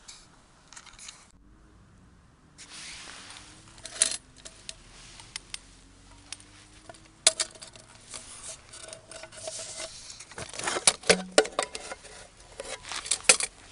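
Small hard objects clinking and knocking, like dishes and utensils being handled: a run of sharp clicks, busiest about ten to eleven seconds in.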